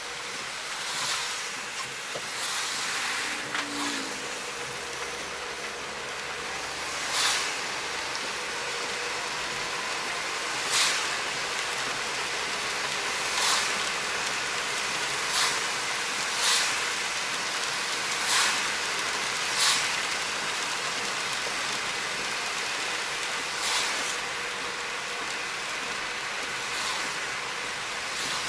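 Heavy rain and tyres on a flooded road, heard from inside a moving car: a steady hiss, with a louder swoosh every few seconds.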